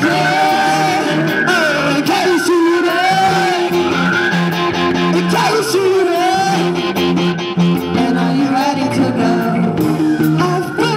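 A rock band playing a song live: a singer's voice over guitar and a steady beat.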